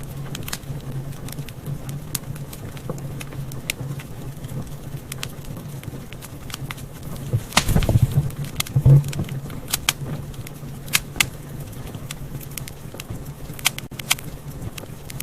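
Wood fire in a fireplace crackling: scattered sharp pops over a steady low rumble of the flames, with a louder flurry of pops about halfway through.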